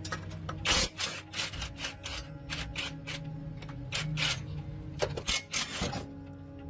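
Hand-tool work on a truck's wheel and axle parts: a dozen or so short, irregular rasping and clattering strokes over a steady low hum.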